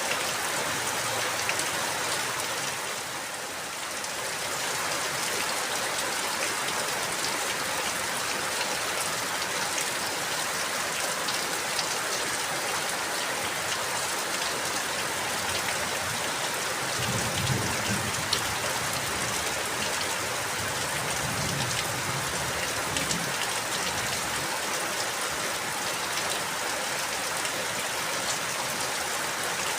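Steady rain falling and pattering on surfaces, with a brief lull a few seconds in and a low rumble through the middle.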